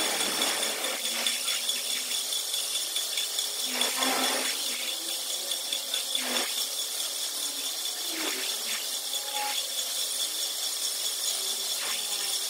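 Flywheel resurfacing machine running steadily while cutting the flywheel face, a high whine over a steady hiss, with a few short louder scrapes at irregular intervals.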